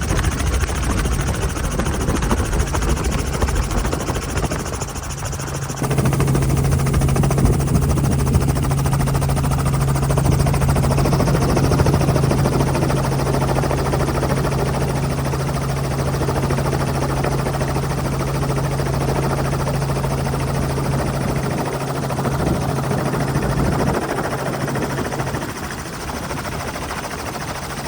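Helicopter running with a steady drone of engine and rotor, a strong low hum underneath; the sound shifts abruptly about six seconds in.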